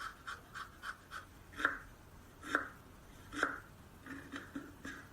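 Kitchen knife chopping on a cutting board: a run of quick light chops, then three heavier, slower strikes about a second apart, then quick chops again near the end.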